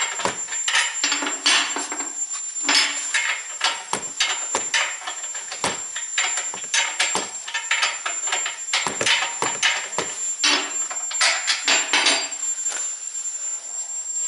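Irregular metal knocks and clanks of hand tools striking and handling metal parts, several in quick succession at times, some ringing briefly, over a faint steady high-pitched whine.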